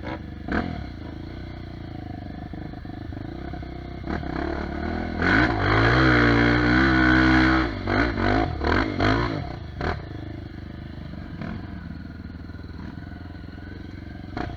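Off-road trail motorcycle engine running. About five seconds in it revs hard for a couple of seconds, then gives several short throttle blips before settling back to a lower steady drone.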